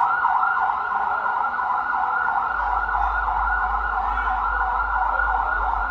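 Electronic siren sounding a rapid up-and-down yelp, like a police siren. A low rumble joins in about two and a half seconds in.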